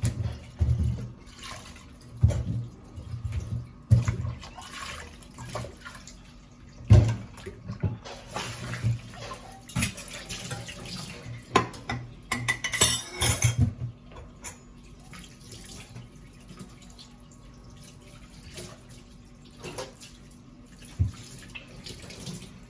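Washing up at a sink: tap water running in spells while dishes and cutlery clink and knock. From about two-thirds of the way through it goes quieter, with only a few scattered knocks.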